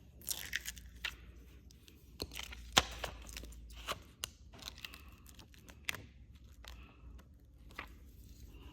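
Plastic window tint film being handled: irregular crinkles and crackles with sharp clicks, the loudest a little under three seconds in.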